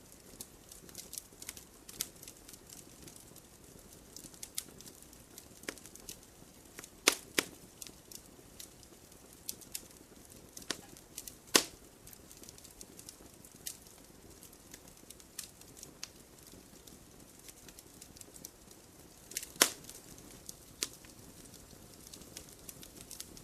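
Wood campfire burning with a soft steady hiss and irregular crackles, with loud sharp pops about 7, 11 and 19 seconds in.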